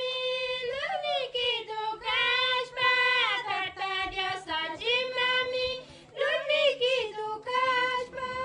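A high voice singing a wavering melody with held notes, breaking off briefly about six seconds in before going on.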